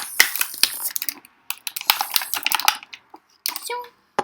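Plastic toy packaging being pulled open by hand: a quick run of crinkling, crackling and small clicks.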